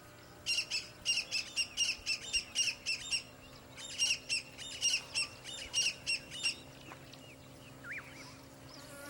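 A bird calling in two runs of rapid, repeated sharp chirps, about four a second, with a short pause between the runs.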